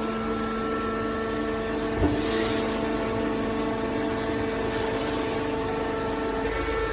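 Hydraulic scrap metal baler's power unit running with a steady hum, with a single short knock about two seconds in.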